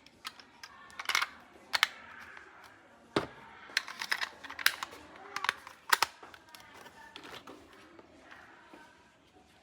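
Handling of plastic toys and packaging: irregular sharp clicks and snaps, some in quick clusters, over a faint rustle.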